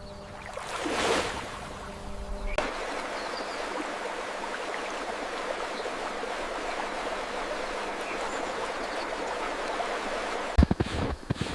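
Steady rush of flowing water, like a stream, without pitch or rhythm. Before it there is a brief swelling whoosh, and near the end a few sharp irregular knocks break in.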